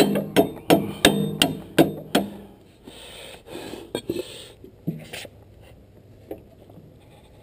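Hammer striking metal in quick, even blows, about three a second, each one ringing. The hammering stops about two seconds in, and a few scattered knocks and rustles follow.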